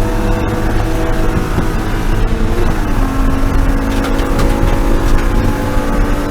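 BMW E36 M3 race car's straight-six engine running at a fairly steady pitch under heavy road and wind noise, with a small drop in pitch about three seconds in.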